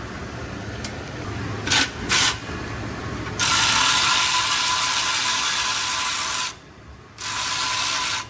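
Ratchet wrench on a 15 mm socket loosening a bolt on the exhaust: two short bursts, then a long run of about three seconds, a brief pause, and another run near the end.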